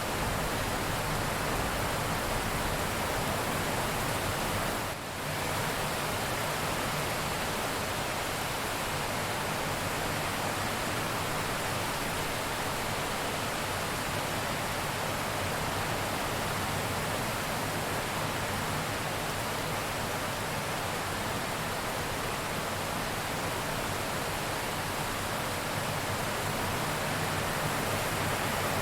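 Heavy rain falling steadily, an even dense hiss with no thunder, briefly dipping in level about five seconds in.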